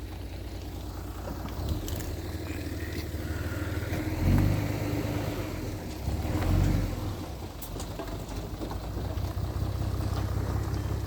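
Heavy diesel engine of earth-moving machinery running steadily, with two louder swells of power about four and six and a half seconds in.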